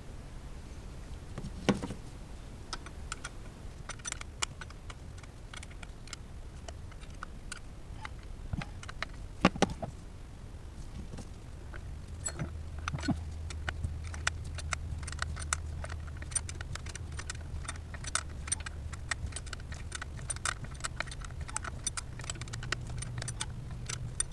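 Hand tools and metal parts clicking and clinking during engine work: scattered sharp clicks with a couple of louder knocks, then rapid, denser clicking from about halfway in, over a low steady hum.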